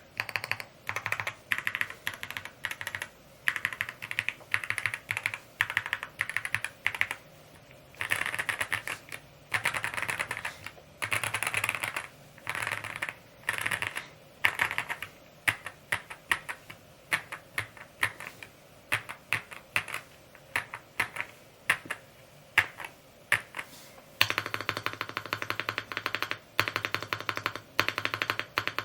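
Typing on a Rainy75 aluminium-cased mechanical keyboard: rapid key clacks in bursts of a second or two with short pauses between. About four seconds before the end the sound changes abruptly to brighter, denser clacking.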